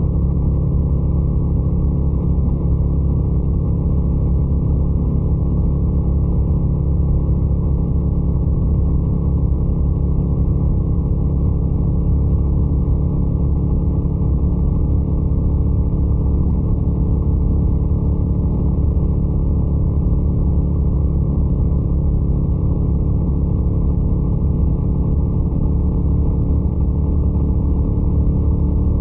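Ducati Scrambler 800's air-cooled L-twin engine running at a steady, unchanging speed, with a deep, even exhaust note and no revving.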